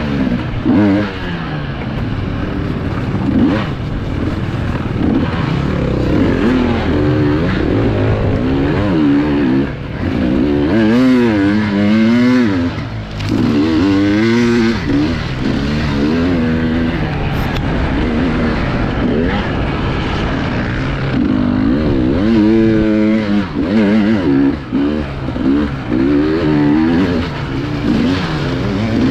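Enduro motorcycle engine heard from on the bike, revving up and down over and over as the throttle is worked on and off through a rough off-road course.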